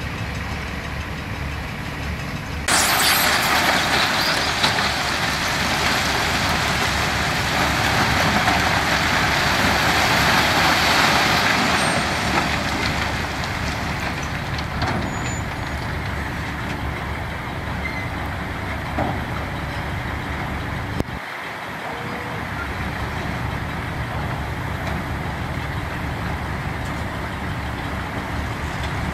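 Heavy diesel construction machinery running with a steady rumble. About three seconds in, a louder, hissing engine noise starts abruptly and slowly dies away over the next ten seconds.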